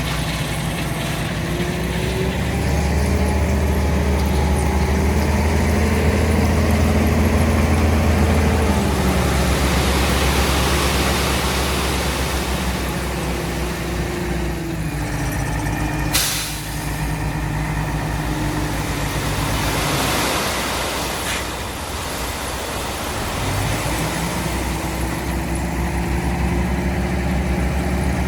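Truck engine running steadily, louder for a few seconds early on between about 3 and 9 s, with a single sharp crack about 16 s in and a brief drop in engine level around 20 s before it picks up again.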